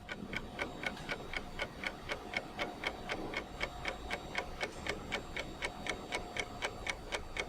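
Steady, evenly spaced ticking, about four and a half ticks a second, with a faint steady tone underneath.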